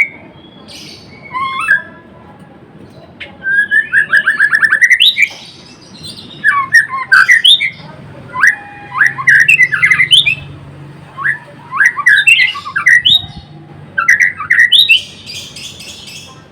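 White-rumped shama singing a loud, varied song: bursts of gliding whistled notes, a fast run of repeated notes, and sharp harsh notes, separated by short pauses.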